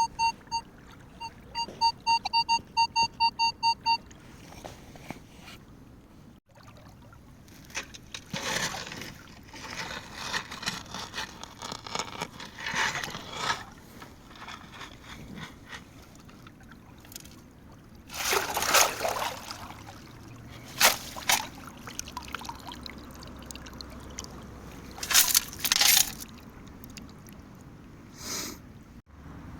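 Minelab Manticore metal detector beeping rapidly on a target for the first few seconds. Then come irregular splashes and water pouring off as a find is dug out of the riverbed.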